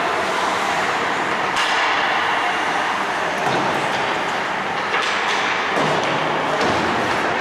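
Ice hockey play: a steady hiss of skates on the ice, with a few sharp knocks of sticks and puck.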